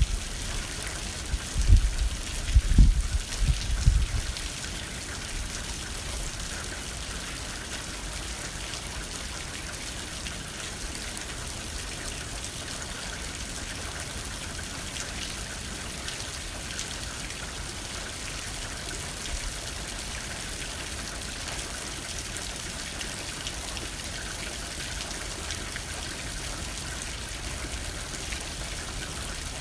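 Steady rain pattering on a window pane, a fine even hiss with scattered drops. Low gusts of wind buffet during the first four seconds, then only the rain remains.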